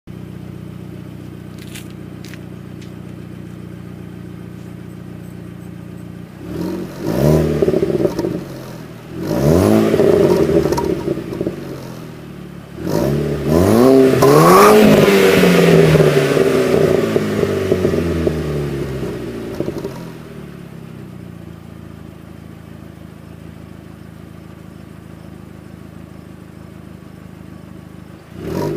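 Turbocharged 2.0T FSI four-cylinder engine with a Magnaflow exhaust idling, then revved three times, each rev rising and falling back; the third and longest rev, about halfway through, brings a screeching sound. The engine then settles back to a steady idle.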